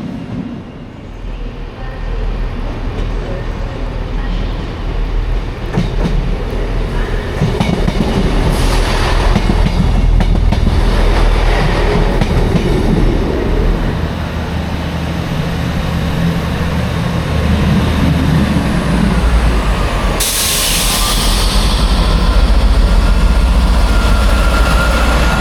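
A train moving along the platform, its rumble building over the first several seconds, with a sudden loud hiss about twenty seconds in that fades away.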